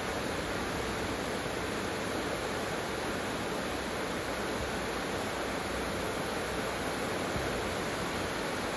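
Heavy rain falling steadily: a dense, even hiss of a tropical downpour.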